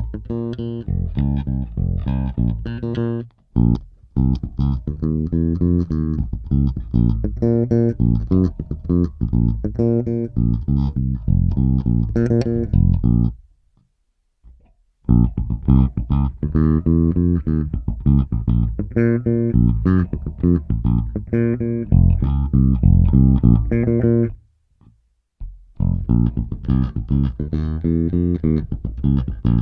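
Five-string StingRay-style bass with two humbuckers, played fingerstyle and recorded direct with a flat EQ. It plays phrases of notes with brief breaks about three and a half seconds in, near the middle, and about 25 seconds in.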